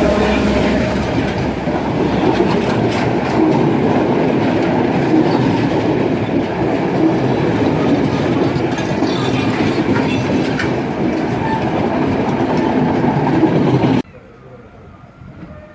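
Udaya Devi express passenger train running along the track: loud steady rumble of wheels on rails, with clicks as the wheels pass over rail joints. The sound cuts off abruptly about 14 seconds in.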